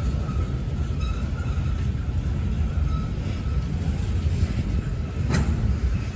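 Freight cars of a manifest train rolling past with a steady low rumble. A faint thin squeal is heard in the first half, and a single sharp clank comes about five seconds in.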